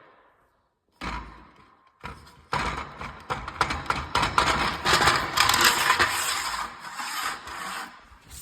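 Rough scraping and rasping on a hard surface in irregular strokes: a short burst about a second in, then louder, steadier scraping from about two and a half seconds until near the end.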